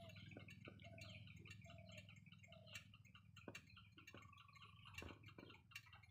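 Faint birds chirping in a rapid, busy pattern. In the first half one short, lower call repeats about once every second, and a single held note sounds a little after the midpoint. A steady low hum runs underneath, with a few soft clicks.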